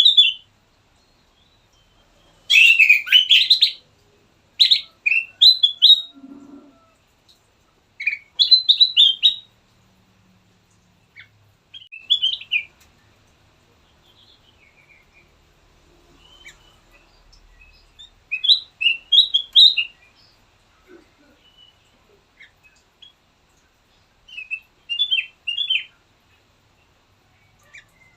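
Kutilang emas, a bulbul, singing: bursts of quick, high chirping notes lasting a second or two, repeated every few seconds with pauses between.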